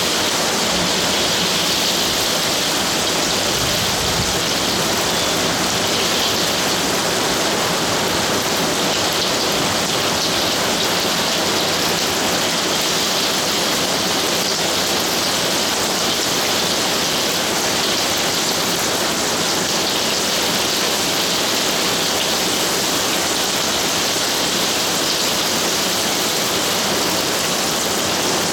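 Rain from a summer thunderstorm pouring down steadily, an even hiss with no let-up.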